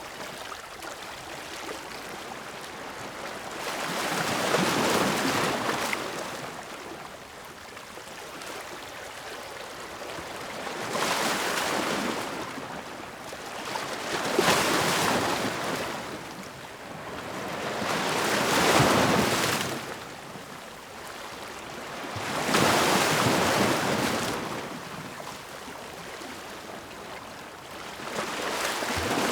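Ocean waves breaking on the shore, each one a surge of hissing surf lasting a couple of seconds, about six in all at uneven intervals of four to six seconds, over a steady wash of water between them.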